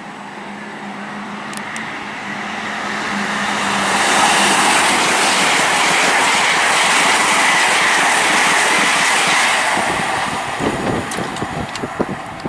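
GWR Class 800-series Intercity Express Train passing through at speed: the rush of wheels on rail and air swells for about four seconds, holds loud, then fades away near the end. Wind buffets the microphone in the last couple of seconds.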